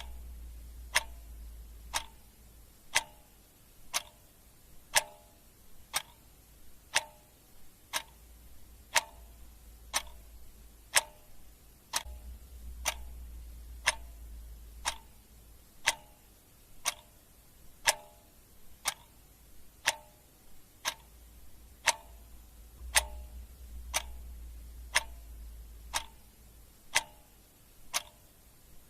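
Clock ticking steadily at two ticks a second, alternating a louder tick with a softer tock. A low hum swells in and out a few times underneath.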